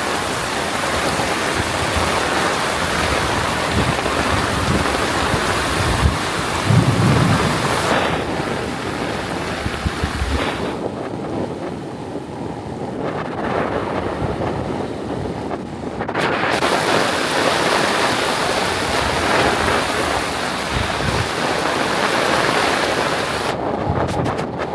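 Heavy rain pouring down in a steady hiss, with a few low buffets of wind on the microphone; the high end of the hiss dulls for several seconds midway.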